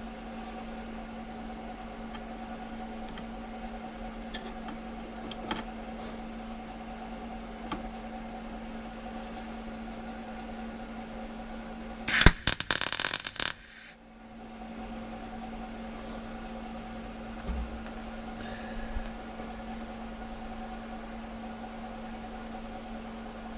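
MIG welder striking an arc about halfway in for one short burst of crackling, under two seconds: a single weld blob stitched onto a door repair section. A steady electrical hum runs underneath throughout.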